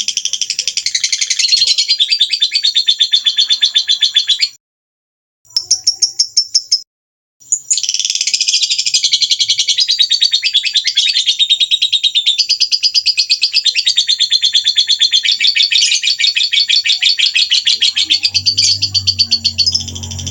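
Small songbird birdsong of the kind played to train cage birds: a rapid, unbroken stream of high chirps and twitters. It cuts to dead silence twice, briefly, about five and seven seconds in.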